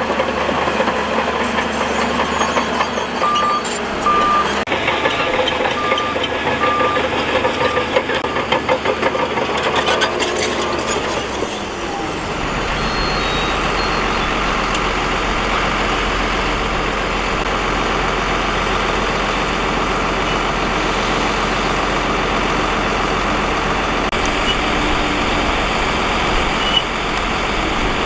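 Heavy earthmoving machinery running, with a reversing alarm beeping steadily for the first ten seconds or so. About twelve seconds in, the sound switches abruptly to a steady engine with a deep rumble.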